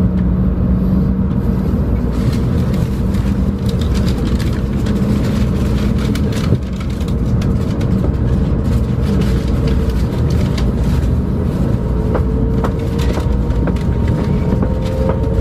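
A Shinkansen train running, heard from inside the passenger cabin as it pulls out through the station. A steady low rumble carries many short clicks, and a humming whine from the traction motors rises in pitch near the end as the train gathers speed.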